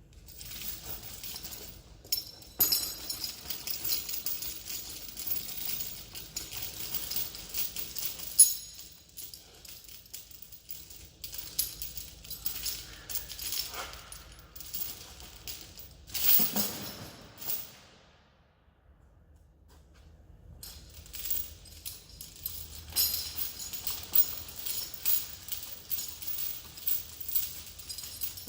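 Steel tow chain rattling and clinking in bursts as it is handled and dragged, with two louder clanks, about eight and sixteen seconds in.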